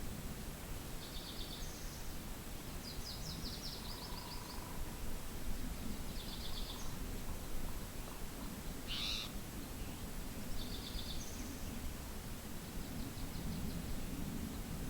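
Small songbirds giving short, high, rapid trilled phrases every couple of seconds, with one louder call about nine seconds in, over a steady low rumble of wind.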